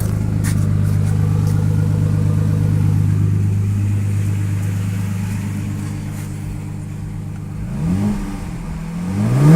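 Dodge Magnum's 3.5-litre HO V6 idling steadily through a newly fitted Dynomax cat-back exhaust, fairly quiet. Near the end it is blipped twice, the second rev the louder.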